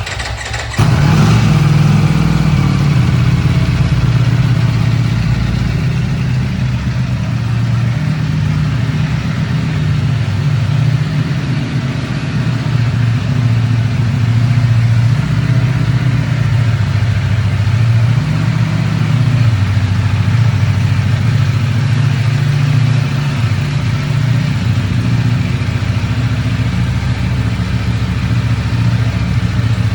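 2019 Ducati Superbike's engine started: a brief crank on the starter, then it fires under a second in and settles into a steady loud idle.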